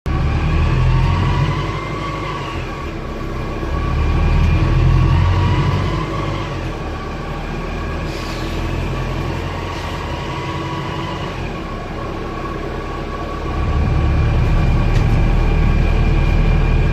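Wright StreetDeck double-decker bus with its Daimler OM934 four-cylinder diesel running and pulling, with a loud grinding noise and a whine that rises and falls with speed. It swells louder around a few seconds in and again from about two-thirds of the way through.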